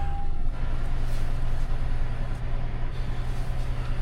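Pickup truck engine idling steadily, with a single steady electronic chime tone from the vehicle that stops about half a second in.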